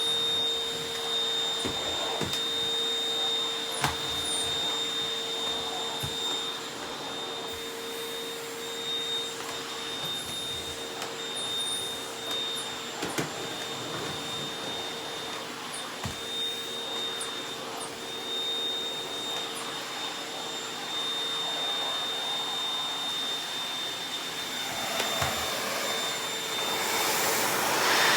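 Vacuum cleaner running steadily with a high motor whine, sucking up small debris that ticks and clicks through the nozzle, growing louder near the end.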